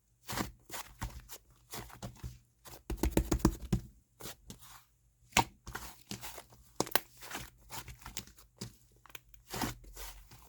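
Clay slime being pressed, squished and stretched by hand, giving irregular sticky crackles and pops. There is a denser run of crackling about three seconds in.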